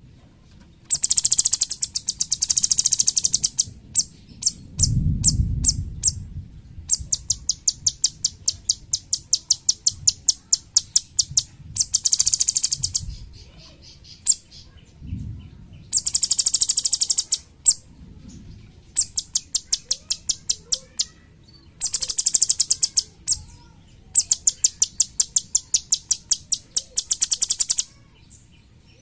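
Cucak cungkok singing in its rapid-fire "tembakan" style: dense trills of sharp, high notes in bursts of one to two seconds, alternating with slower runs of separate notes and short pauses. A low rumble about five seconds in.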